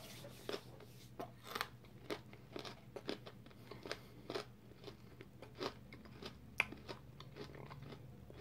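Faint chewing and crunching of a chocolate candy bar with a peanut-butter filling: a string of short, irregular crunches, one or two a second.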